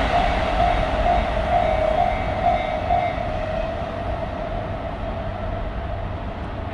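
Train running past, its rumble fading as it moves away, with a steady high tone that pulses about twice a second in the first half and then thins out.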